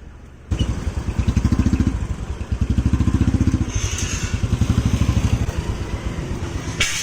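Motorcycle engine starting up suddenly and running with a fast, even throbbing that swells and eases in surges. A sharp knock comes near the end.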